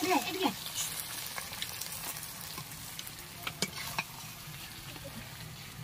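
Chicken and potato kasha sizzling in a metal kadai, with a metal spatula scraping and clicking against the pan a few times as the pieces are stirred and lifted out. A short voice-like sound at the very start.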